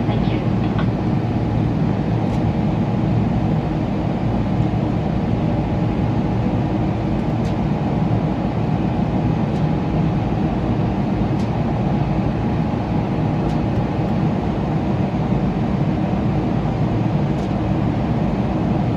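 Steady cabin noise inside a Boeing 777-300ER: the GE90 engines and airflow making a constant low rumble with a faint hum, a few faint ticks scattered through it.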